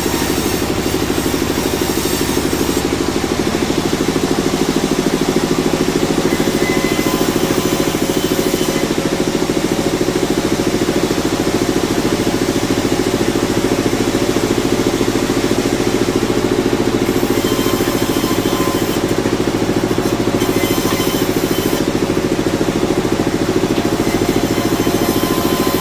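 Sawmill machinery running with a loud, steady drone and an even hum that holds one pitch.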